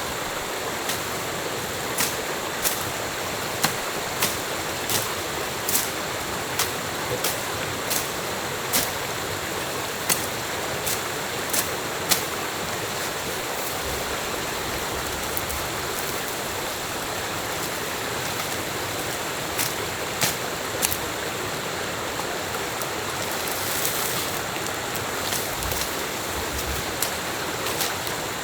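Steady rush of a stream's running water, with many short, sharp clicks over it, one or two a second at first and fewer later.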